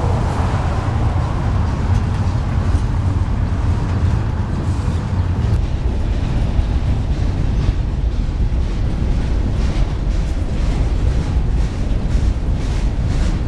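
Freight train cars rolling past close by: a steady low rumble of wheels on the rails, with light regular clicks, about two a second, in the second half. A car drives past at the very start.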